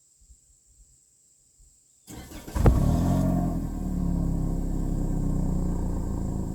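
2023 Toyota Corolla LE's four-cylinder engine starting: a few faint clicks, then the starter cranks about two seconds in, the engine catches half a second later with a short rev flare, and it settles into a steady idle heard through the exhaust.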